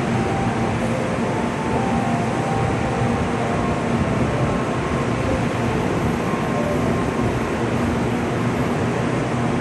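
San'yo Shinkansen train running: a steady rumble and rush of noise with faint steady tones, no change in level.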